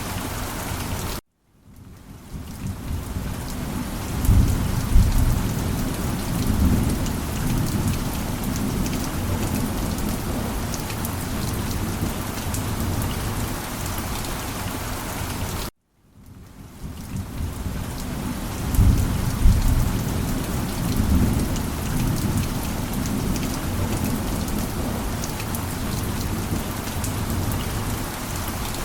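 Steady heavy rain with low rolling thunder rumbles, about four seconds in and again about nineteen seconds in. The sound cuts out for a moment twice, about a second in and near the middle, then swells back in: a rain-and-thunder loop repeating about every fourteen and a half seconds.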